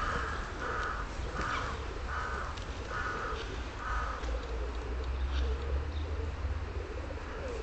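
A bird calling in a run of about seven short, evenly spaced calls, roughly one every half second or so, which stop about four seconds in. A steady low rumble runs underneath.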